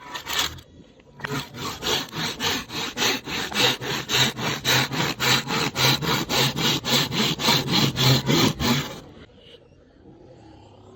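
A saw cutting through bamboo in quick, even back-and-forth strokes, about three or four a second, for roughly eight seconds before stopping suddenly.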